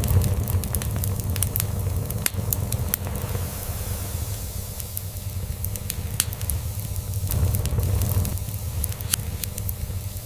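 Wood fire crackling in a fireplace, with frequent sharp pops and snaps that are thickest in the first few seconds. Underneath runs a cat's steady low purr.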